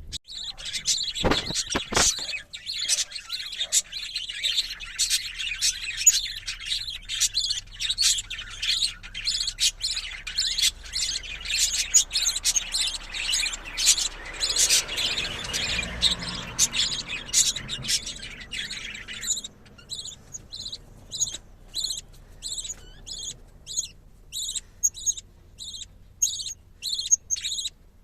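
Budgerigars chirping and chattering busily, with a few sharp knocks near the start. About two-thirds of the way in the chatter gives way to a steady series of short, evenly spaced calls, about two a second.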